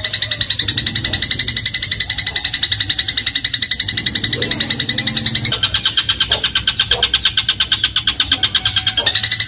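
Eurasian tree sparrow (burung gereja) giving a fast, rattling run of chirps, about ten a second, in the 'crot' style used as a tutor song for songbirds. The pitch steps up slightly about halfway through, over a low steady hum.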